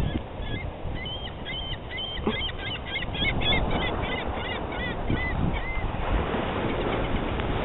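Gulls calling: a rapid run of short, high, repeated calls that stops about six seconds in.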